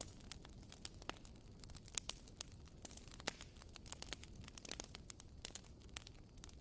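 Wooden wick of a WoodWick candle crackling faintly, with irregular soft pops and snaps several times a second, like a small wood fire.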